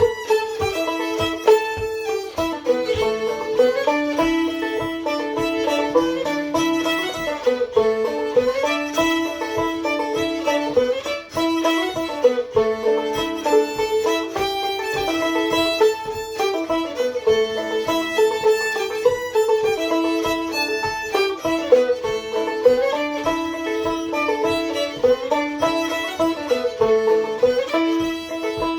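Old-time fiddle and clawhammer banjo duet playing a lively tune in A modal. The bowed fiddle melody runs over the banjo's steady, evenly spaced plucked strokes, with the banjo in a modal tuning, fifth string in A.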